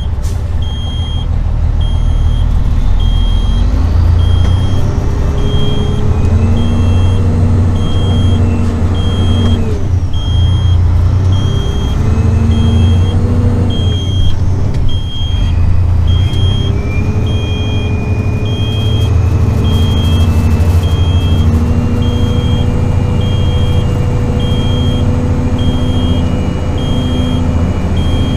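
Diesel semi-truck engine working at low speed, its pitch rising and falling with the throttle, with a high, evenly repeating backup beeper.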